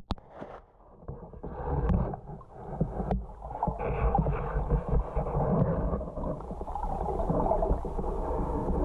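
Muffled underwater noise: low rumbling and gurgling of water as heard by a camera in a waterproof housing, dropping off suddenly at the start and building back up within a couple of seconds.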